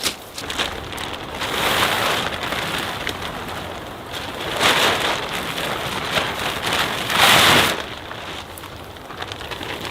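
Rain falling steadily, with three louder rushing swells of noise, the loudest about seven seconds in.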